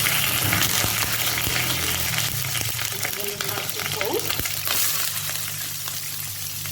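Hot oil sizzling in a frying pan with bay leaves frying in it; the sizzle eases a little towards the end.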